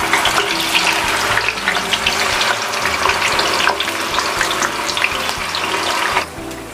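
Pieces of wet, marinated tofu sizzling and crackling in hot frying oil in a pan as more are dropped in. The crackle turns quieter near the end.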